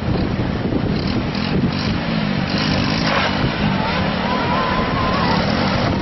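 Motor vehicle traffic: engines running under a steady, loud noisy wash.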